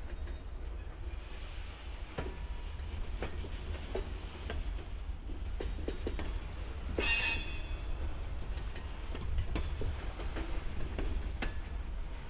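Freight train of covered hopper cars rolling past: a steady low rumble with irregular clicks from the wheels, and a brief high metallic squeal about seven seconds in.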